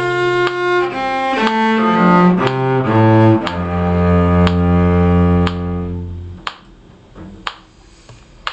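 Cello playing the last notes of a scale stepwise, ending on a long low bowed note that fades out about six seconds in. Metronome clicks run evenly underneath, about two a second, and keep going after the note stops.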